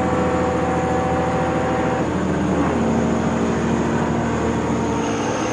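Heavy truck engine running with a steady low drone. Its pitch shifts about two seconds in and again near the end.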